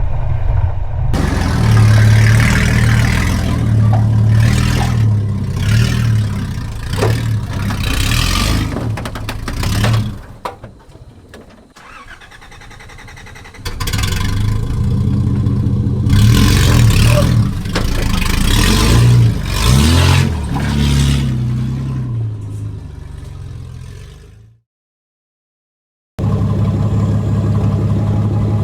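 Nissan GQ Patrol's carburetted TB42 straight-six, with no exhaust fitted, revving up and easing off under load as it crawls through holes and up a rock step. It drops quieter for a few seconds about ten seconds in, then cuts to silence briefly near the end before running again.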